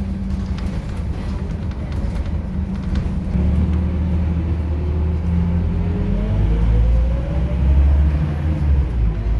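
Scania K230UB city bus's diesel engine pulling under load. Its low drone grows heavier about three seconds in, and a whine rises steadily in pitch as the bus gathers speed.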